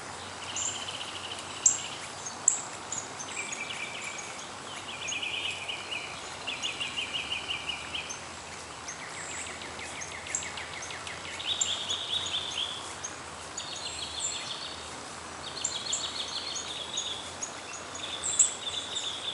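Several songbirds calling: sharp high chips come throughout, and trilled songs of about a second or more repeat every couple of seconds. A steady outdoor hiss lies underneath.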